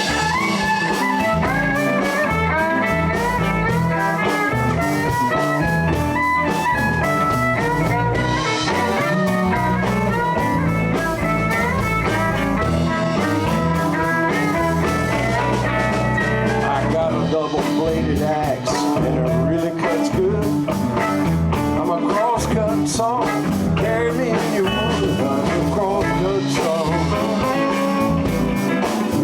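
Blues band playing live with drums, bass and electric guitar, a lead line moving in quick steps over the rhythm without a break.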